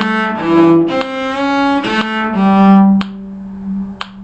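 Bowed string instrument in a low register playing a short phrase of changing notes, some on two strings at once, with a deliberate slide between two notes, then holding the last note, which softens after about three seconds.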